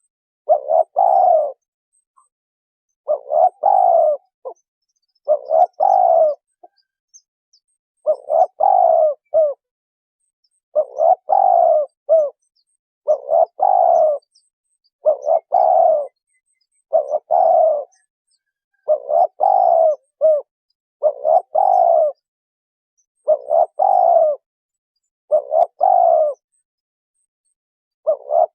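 Spotted dove cooing: a repeated call of about a second, several throaty coo notes each time, given about every two seconds with silence between.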